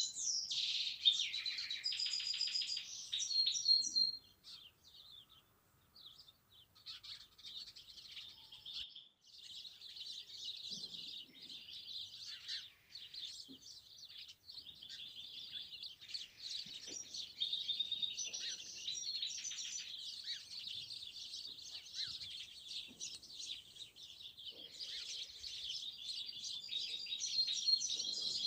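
Small songbirds chirping and twittering in many quick, high notes. The chorus is loud and dense for the first few seconds, drops off sharply about four seconds in, then slowly builds back up.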